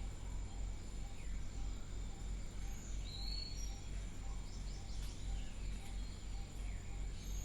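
Quiet background noise: a steady low hum with a faint, thin high-pitched tone, and a few short high chirps from about three seconds in.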